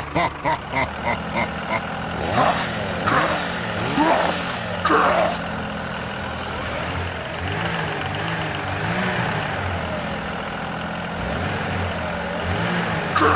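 Engine running, its pitch rising and falling repeatedly, with a few short sweeping tones about two to five seconds in.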